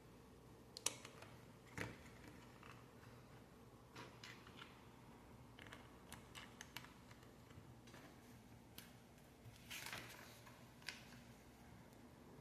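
Faint, irregular clicks and taps of small plastic Lego pieces being handled and pressed together, with a slightly longer rattling burst about ten seconds in.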